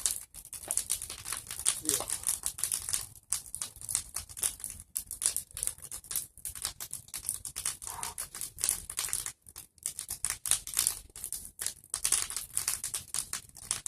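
Bonfire of pruned tree branches burning briskly, a dense, continuous crackle of rapid pops and snaps as the brush catches well.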